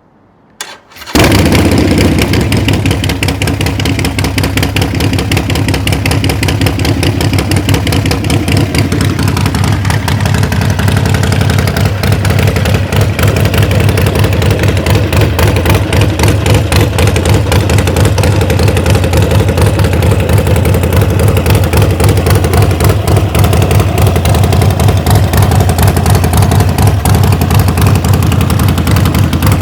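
Harley-Davidson XL 1200 Forty-Eight's air-cooled V-twin engine being started: a brief crank, then it catches about a second in and settles into a steady, loud idle with an uneven, lumpy beat.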